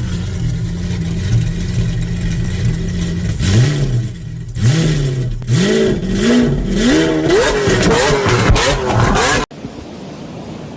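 Car engine running at a steady idle, then revved hard over and over from about three and a half seconds in, its pitch rising and falling with each blip. About nine and a half seconds in it cuts off suddenly to steady wind noise.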